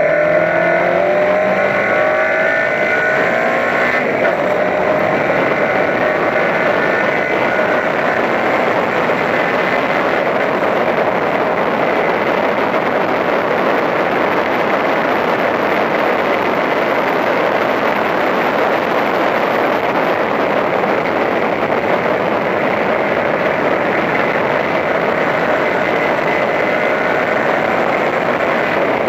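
Toyota Corolla Levin race car's engine at full throttle, rising in pitch for the first few seconds as it accelerates out of a corner, then held at high revs down the straight under a steady rush of wind and road noise.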